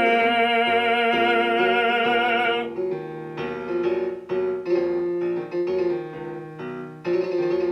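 A classical baritone holds the end of a sung line on one long note with vibrato over piano accompaniment, stopping about two and a half seconds in. Solo piano then plays an interlude of struck chords.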